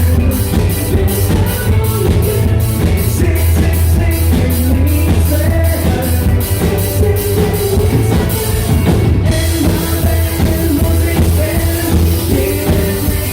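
Live pop-rock band playing loud through a PA, with a steady drum beat, and a rising swell of noise that breaks off about nine seconds in before the beat carries on.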